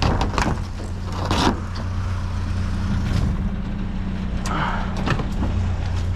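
A vehicle engine idling with a steady low hum, under scattered clicks and rustles of junk and wire being rummaged through.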